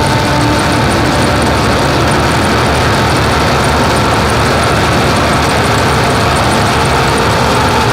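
Harsh noise music: a loud, unchanging wall of dense noise with a grainy low rumble underneath and a few faint steady tones above it.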